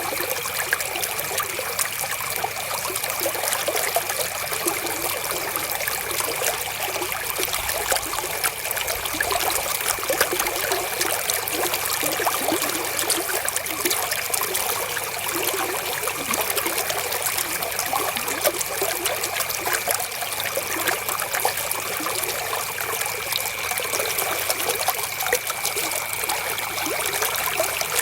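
River water flowing and trickling steadily over stones, a constant rush dense with small splashes. A faint steady high tone sits beneath it.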